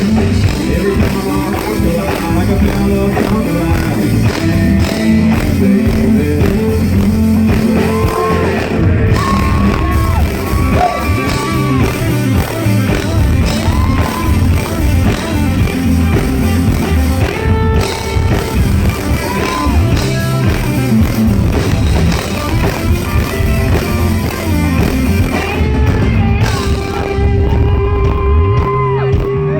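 Live country-rock band playing loudly, with electric guitar, bass and drums, and some singing or crowd shouts mixed in.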